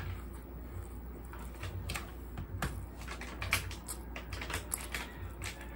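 Close-up eating sounds of a person chewing grilled rotisserie chicken and rice eaten by hand, with irregular wet mouth clicks over a low steady hum.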